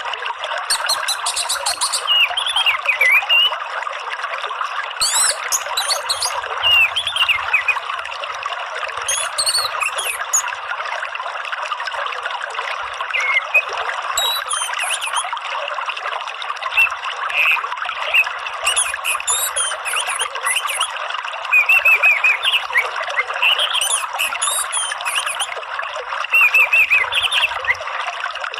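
Steady trickling, running water with birds chirping over it: short whistled chirps and repeated clusters of high, sharp calls come and go throughout. This is the kind of water-and-birdsong therapy track played to caged songbirds such as orange-headed thrushes.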